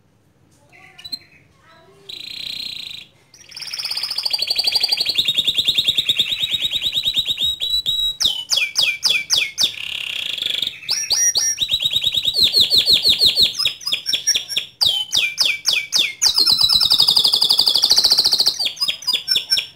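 White domestic canary singing loudly: a few short chirps, then from about three seconds in a long unbroken song of rapid trills and rolls, changing from one fast-repeated phrase to the next.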